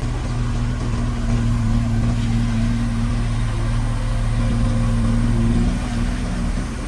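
Diesel engine of heavy earthmoving equipment running steadily, with a steady low engine note that eases off a little near the end.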